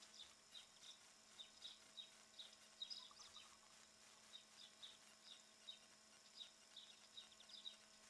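Small birds giving short, high chirps, faint and frequent, with a quick run of chirps near the end.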